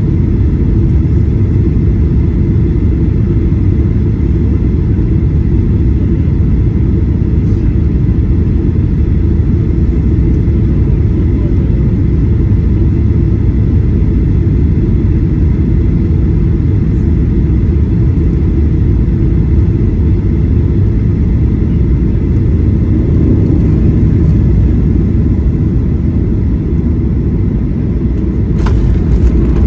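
Airliner noise during a landing: a loud, steady low rumble with faint steady whining tones above it. About a second before the end a sudden hiss joins in and the sound grows a little louder.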